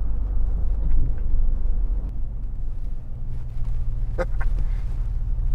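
Steady low rumble of the Ford F-150 EcoBoost truck rolling slowly in traffic, with a brief honk-like tone about four seconds in.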